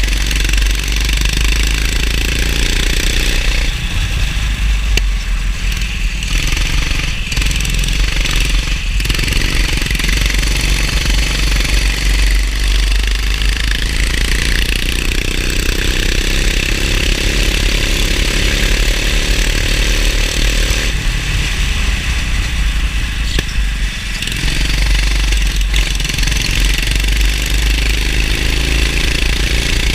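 Go-kart engine running hard, its pitch falling and rising as it is driven, climbing steadily for several seconds near the middle, with a constant hiss over it.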